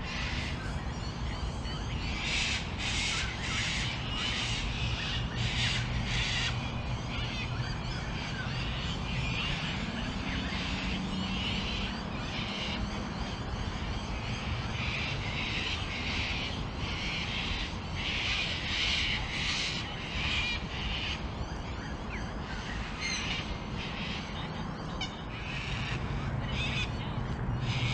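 Birds calling: repeated short, harsh calls in clusters, with a steady low hum underneath.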